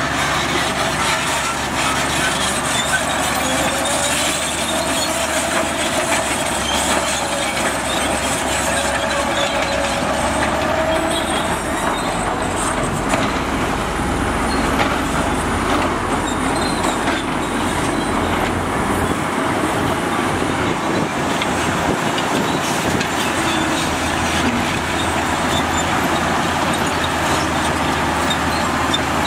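Heavy diesel construction machinery working, its engines running steadily with a gently rising whine a few seconds in. The deep rumble eases about two-thirds of the way through.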